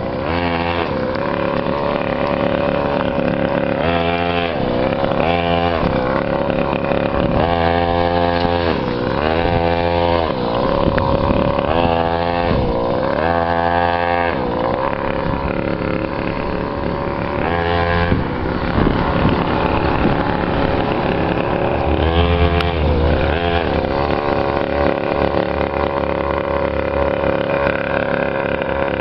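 Small custom chopper motorcycle engine running and being revved up and down over and over, with a steadier stretch partway through.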